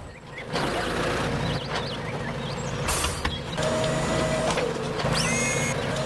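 Small electric motor of a toy tractor running with a steady whine and mechanical rattle, with a few short high clicks.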